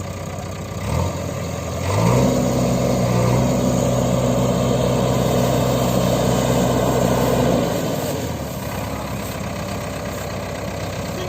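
Heavy diesel engine of a working machine idling, blipped up briefly about a second in, then revved up about two seconds in and held at a steady higher speed until nearly eight seconds, before dropping back to idle.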